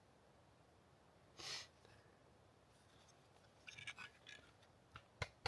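Mostly near silence, broken by faint scraping and small clicks as a crumbly, layered rock is knapped with the back of a hatchet, with one sharp strike near the end.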